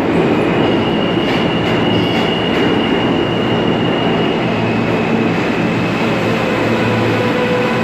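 Subway work train rolling through a station: a steady rumble of wheels on rail with a thin, high wheel squeal held almost throughout.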